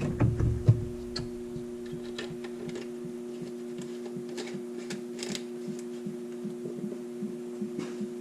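Steady two-tone hum with soft knocks in the first second and faint scattered clicks after.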